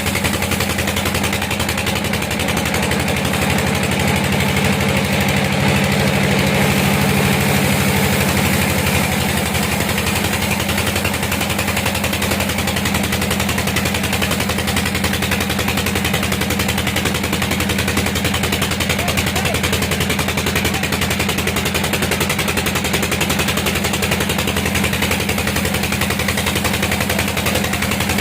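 Sawmill engine running steadily, its fast firing pulses giving a rapid rattle; it swells a little louder for a few seconds near the start, then settles.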